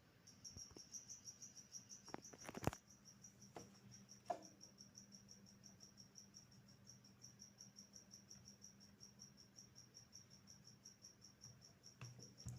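Faint cricket chirping in a steady high-pitched pulse, about four chirps a second, over a low hum. A few sharp clicks fall between two and four seconds in, the loudest of them about two and a half seconds in.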